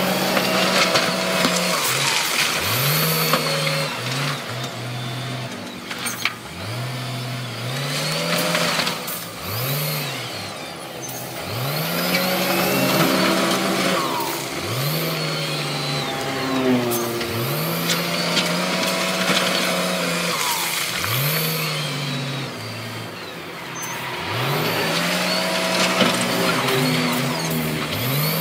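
Heavy diesel earthmoving machinery working: an engine revs up and holds, then drops, over and over every two or three seconds, under a constant clatter and whine of machinery.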